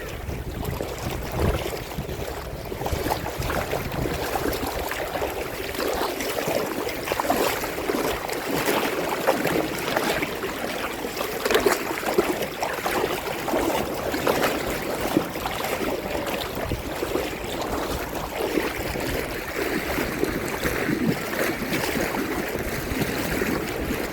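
Shallow sea water sloshing and lapping in small waves, with many small irregular splashes. A low wind rumble on the microphone fades out in the first few seconds.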